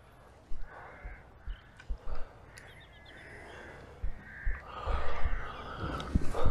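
Harsh bird calls, a caw repeated several times and loudest about five seconds in, with low thumps on the microphone.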